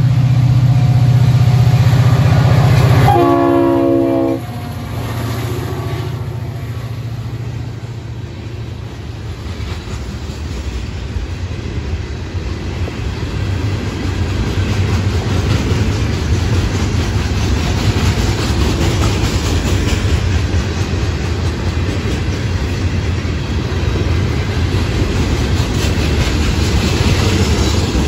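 Florida East Coast Railway freight train passing close by. The diesel locomotive's horn sounds for the first four seconds and cuts off sharply. Then the loaded rock hopper cars roll by with a steady rumble and clickety-clack of wheels on the rail joints.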